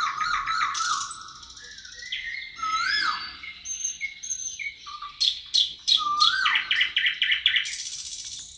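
Several wild birds singing together in a forest: rapid chattering trills, a whistled note that rises and falls repeated every few seconds, and high, buzzy song phrases, overlapping with little pause.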